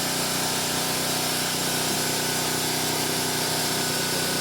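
A steady motor drone with a hiss, unchanging in pitch and level.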